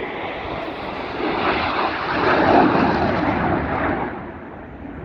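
Propeller or jet airplane passing overhead at an air show: a roar that swells to its loudest about halfway through and fades away over the last second or two.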